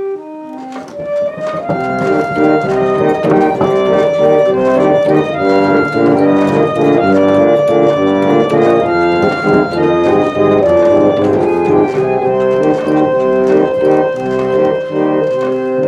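Restored pump organ (reed organ) being played: sustained notes that fill out into full, louder chords about one and a half seconds in.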